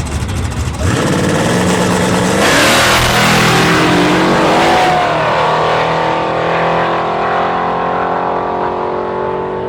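Drag race cars launching off the line and accelerating hard at full throttle down the strip, starting suddenly about a second in and loudest a couple of seconds later. The engine note then steadies and fades as they pull away.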